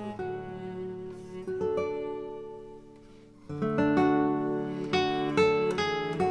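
Background music: acoustic guitar plucking and strumming chords, fading away about three seconds in before a new phrase begins.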